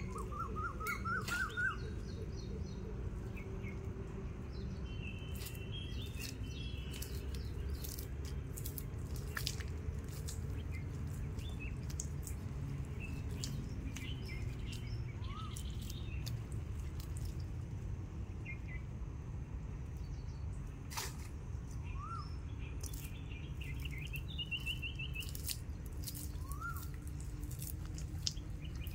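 Small birds chirping in short phrases, a quick series of rising notes and brief trills, over a steady low rumble, with scattered sharp clicks throughout.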